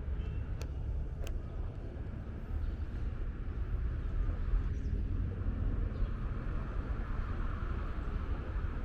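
Steady low outdoor rumble, with two sharp clicks in the first second and a half.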